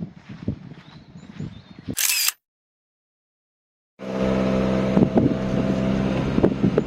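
Irregular crackles and knocks with a few faint high chirps, then a short loud burst of noise and a cut to dead silence. About four seconds in, a steady low hum of several held tones starts, like an engine running.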